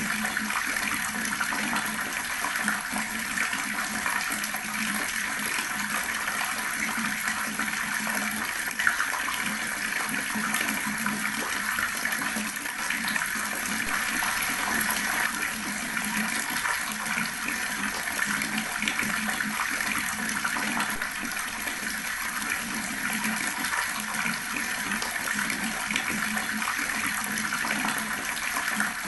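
Water running from a tap in a steady, continuous stream, splashing with no breaks.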